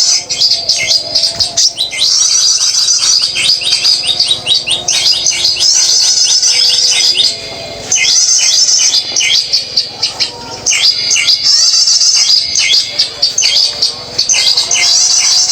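Songbird chirps and trills, loud, fast and near-continuous, with a short break about seven and a half seconds in.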